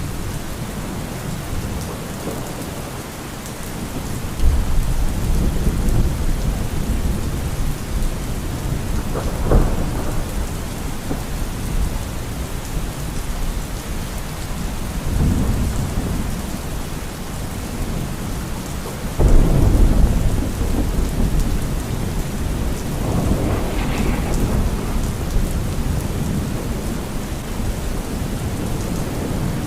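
Thunderstorm: steady rain with repeated rolls of thunder. A rumble builds about four seconds in, a sharper crack comes near ten seconds, and the loudest, sudden clap comes about two-thirds of the way through, followed by further rumbling.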